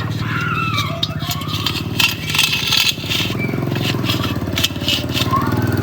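A tractor engine running steadily at a fast, even beat, with metallic clatter and sharp knocks over it.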